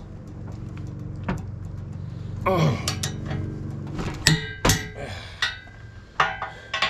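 Sharp metallic clanks and clinks of a wrench and bolt hardware against the steel hitch rails, about six strokes spread over the second half, over a steady low hum.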